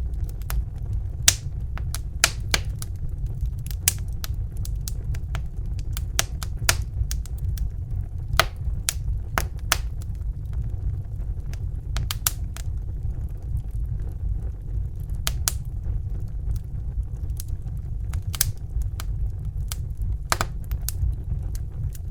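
Crackling wood fire: irregular sharp pops and snaps, several a second, over a steady low rumble.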